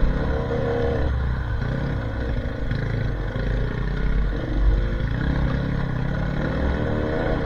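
Dirt bike engine running under load on a trail, its pitch rising and falling as the throttle is opened and closed, over a low rumble.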